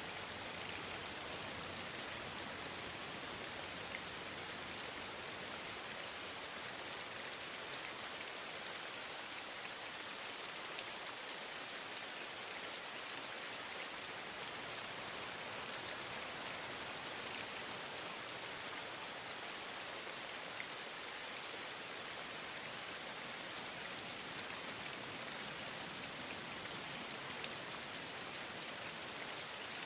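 Steady rain falling in an even hiss, with faint scattered drop ticks.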